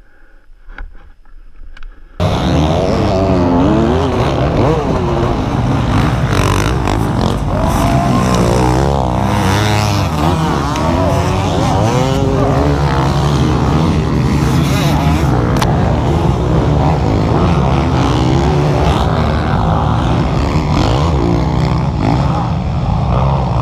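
Motocross dirt bike engine running hard, its pitch rising and falling over and over as it revs through the gears, starting loud and abruptly about two seconds in.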